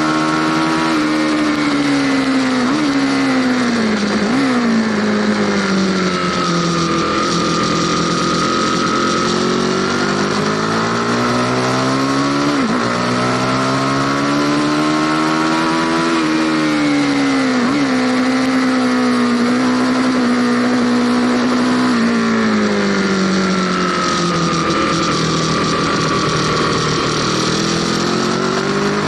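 Aprilia Tuono Factory motorcycle engine heard from on board while riding hard: the revs climb, drop sharply at quick upshifts, then fall away slowly as the bike slows, several times over. Wind noise runs underneath.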